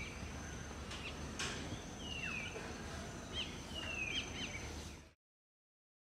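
Birds calling outdoors: a few short, clear whistled notes that slide down in pitch, over a steady low background hum and a thin high steady tone. The sound cuts off abruptly about five seconds in, leaving silence.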